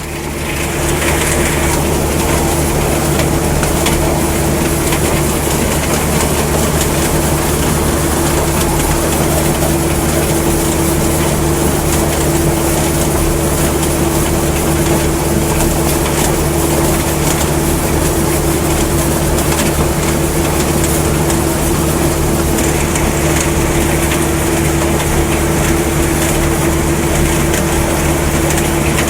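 Tobacco-harvesting tractor running steadily: a constant engine drone with machinery noise over it.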